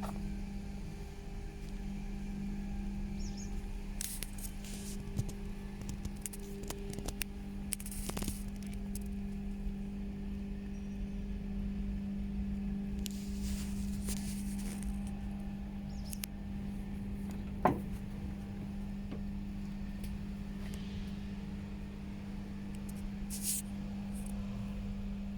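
A steady mechanical hum from running machinery, with scattered light clicks and scrapes and one short sharp squeak that falls in pitch about eighteen seconds in.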